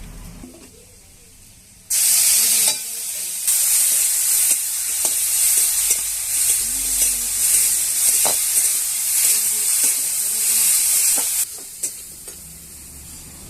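Food frying in hot oil in a pan: a loud sizzle starts suddenly about two seconds in as the food goes into the oil, with a few sharp knocks of the stirring utensil against the pan, and cuts off abruptly near the end.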